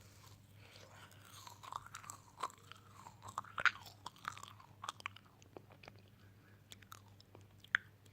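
Close-miked chewing and crunching of food, with many sharp crunchy clicks; the loudest comes about halfway through and another near the end.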